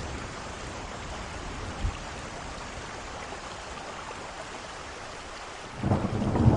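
Steady heavy rain hissing, with a short low thump about two seconds in. Near the end, a thunderclap breaks in suddenly with a loud low rumble.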